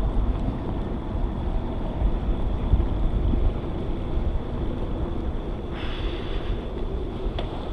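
Wind buffeting an action camera's microphone on a moving bicycle, a steady low rumble with the tyres rolling over the trail; a higher hiss joins about six seconds in.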